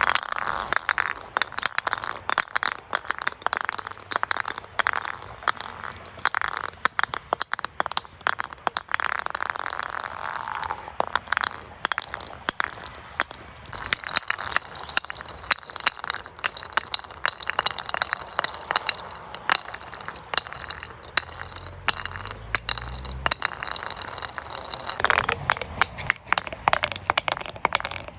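Glass bottles clinking and breaking: a rapid, continuous stream of small sharp glass impacts and shards jingling. A thin steady high tone runs underneath.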